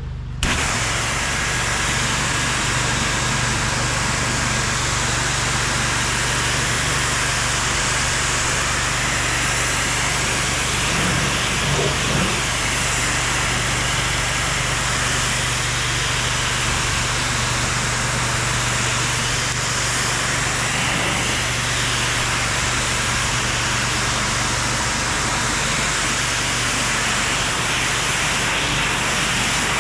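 Pressure washer spraying: a steady hiss of water over the constant low hum of the machine's engine.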